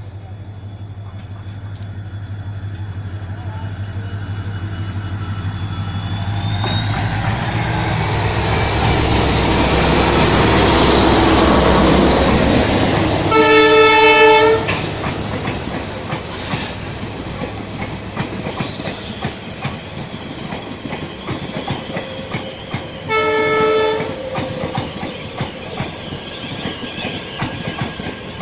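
Diesel locomotive-hauled train approaching and passing, its engine rumble and a high whine building up, with the whine rising in pitch about a quarter of the way in. The locomotive horn sounds a blast of about a second near the middle and a shorter one later, and the coaches roll by with wheel clatter.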